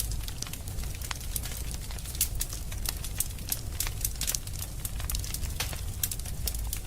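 Wood fire in a fireplace crackling, with many quick, irregular pops and snaps over a low, steady rumble.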